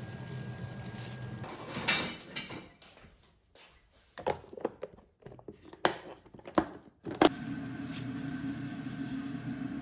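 A steady appliance-like hum broken by a handful of sharp clicks and knocks, like objects being set down and handled; after the knocks the hum comes back at a slightly higher pitch.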